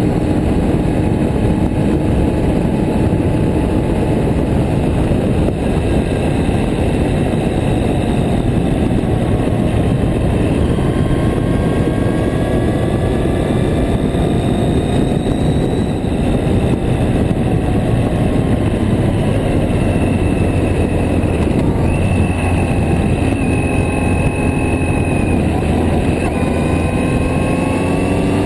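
Yamaha Diversion's air-cooled inline-four engine running on the road, heard close up over wind and road noise. Its note rises and falls as the rider accelerates and eases off, with a clear step in pitch a little past the middle.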